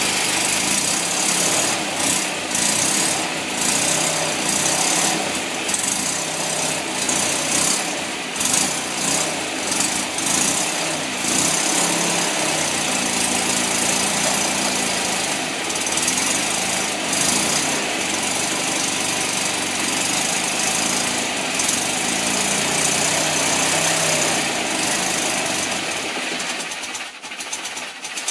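Freshly rebuilt Fiat 126 650cc air-cooled twin-cylinder engine running on a test bench, its pitch wavering as the revs shift, with a clattering rattle from the Workmate bench it is bolted to.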